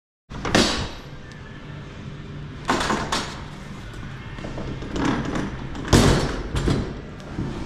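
Elevator equipment running with a steady low hum, broken by several sharp bangs and clanks like doors slamming and sliding.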